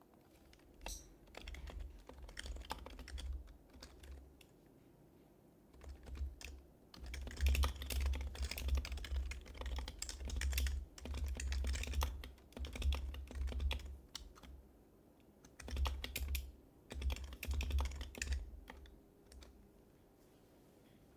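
Typing on an HHKB Professional HYBRID Type-S keyboard: its quietened Topre keys give soft, muffled keystrokes in bursts of quick typing, with short pauses between runs.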